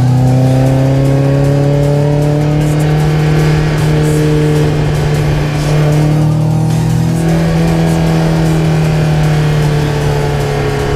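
1990 Toyota MR2 SW20's naturally aspirated four-cylinder engine through a decatted Mongoose stainless exhaust, pulling hard with its pitch climbing slowly. About seven seconds in the pitch dips, then it climbs again near the end.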